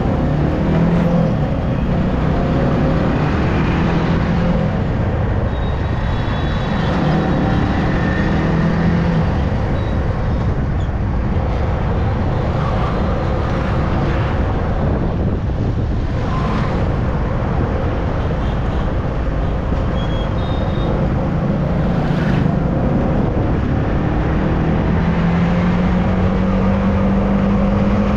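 Yamaha R15's single-cylinder engine running while riding, under steady wind rush and road noise, with other traffic around. Its pitch climbs slowly as it pulls harder near the end.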